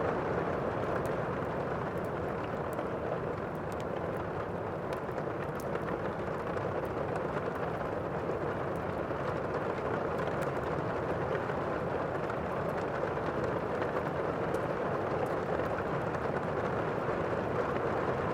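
Steady downpour of rain with faint, scattered crackles from a wood fire.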